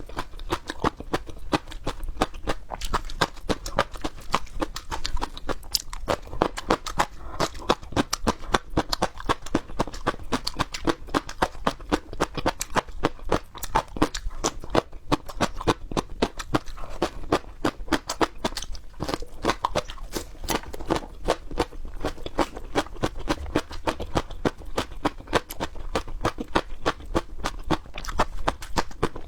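Close-miked chewing of crisp raw peppers: a quick, steady run of wet crunches.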